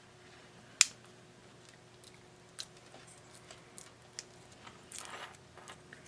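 Scattered small clicks and light scrapes of hands and tools handling the plastic parts of a small radio-cassette player under repair: one sharp click about a second in, a few softer clicks, and a brief rustling scrape near the end.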